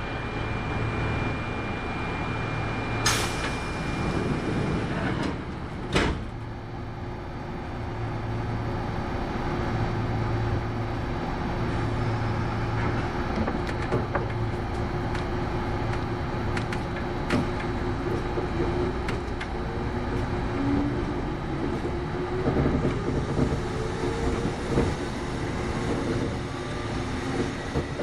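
Kintetsu 8810 series electric train running, heard from inside the car: steady wheel-on-rail and running noise with a motor and gear hum. Two sharp knocks come a few seconds apart near the start, and faint tones rise slightly in pitch in the second half.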